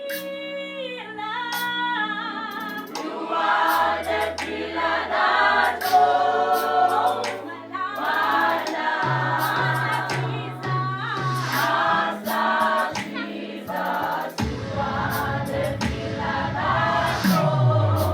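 Youth gospel choir singing in several-part harmony over deep held bass notes that change every second or two, with a sliding drop in the bass near the end.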